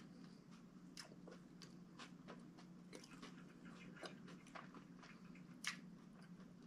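Faint chewing of a mouthful of Subway sub sandwich: irregular soft clicks from the mouth over a low steady hum, with one sharper click about five and a half seconds in.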